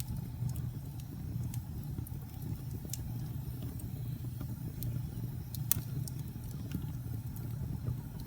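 Wood fire crackling: irregular sharp pops and snaps over a steady low rumble of the flames. The loudest pop comes a little past halfway.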